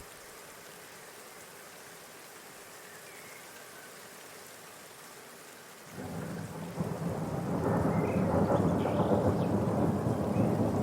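A faint steady background with a few faint chirps. About six seconds in, a loud, uneven rumbling noise sets in and grows louder.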